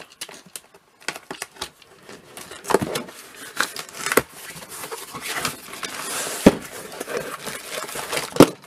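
Packaging being handled as a box is opened and bubble-wrapped comics are taken out: crinkling, crackling and scraping, with a sharp knock about six and a half seconds in and another near the end.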